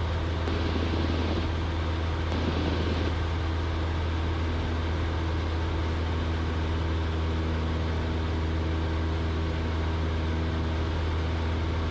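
Cessna 172's piston engine and propeller droning steadily in flight, heard from inside the cockpit as a constant low hum.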